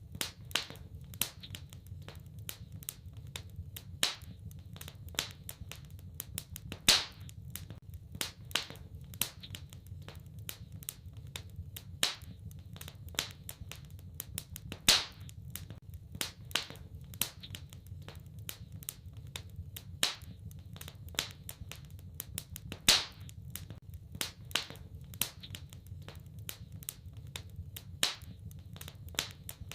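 Wood fire crackling in a fireplace: irregular sharp snaps and pops, a few much louder than the rest, over a soft steady low rumble of the burning.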